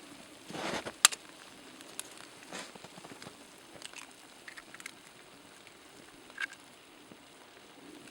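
Campfire crackling with scattered sharp pops, the loudest about a second in, over a faint steady hiss.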